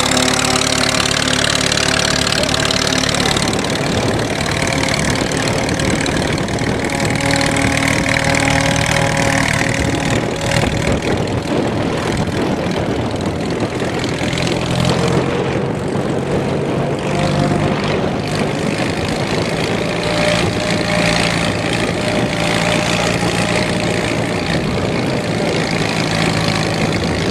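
1926 Fordson tractor's kerosene-burning four-cylinder engine running steadily under load while pulling two plows, with the growl of its worm-drive transmission, a normal characteristic of a Fordson. Several steady tones drift slightly in pitch throughout.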